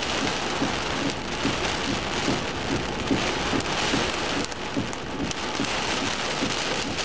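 Hail and heavy rain falling together: a steady rushing hiss dotted with many quick knocks from hailstones striking.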